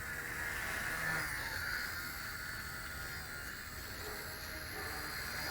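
WLtoys V977 micro RC helicopter in flight: a steady electric motor and rotor whine whose pitch wavers slightly.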